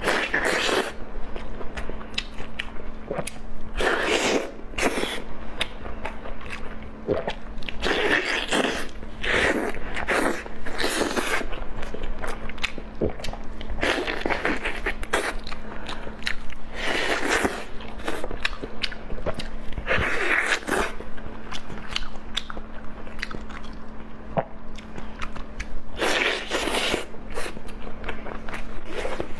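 Close-up mukbang eating sounds: a person biting and chewing food, with many small wet clicks and a louder bite or mouthful every few seconds. A faint steady hum runs underneath.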